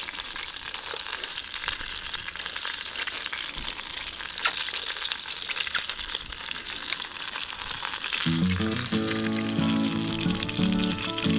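Food sizzling and crackling as it fries over heat, a steady hiss dotted with small pops. Background music comes in about eight seconds in.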